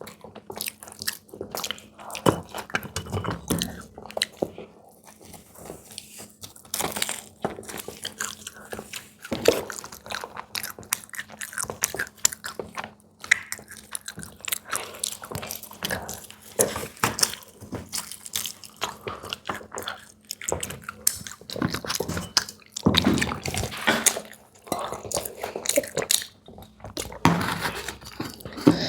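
Close-miked eating sounds: repeated bites, crunching and wet chewing of fried snacks such as samosa, in an irregular run of short crackles and clicks.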